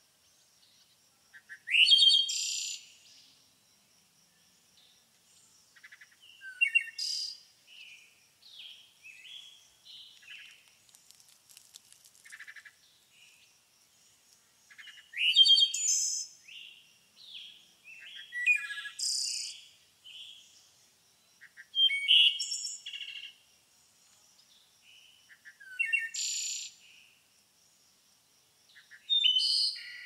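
Birds singing: loud, high, quick song phrases about every three to four seconds, with softer chirps and calls between them.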